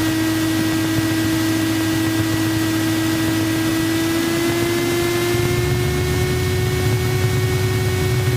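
Cessna 172 engine running at low power during the landing rollout, heard inside the cabin through the headset intercom: a steady whine that slowly rises in pitch over a hiss, with the low engine rumble growing louder about five seconds in.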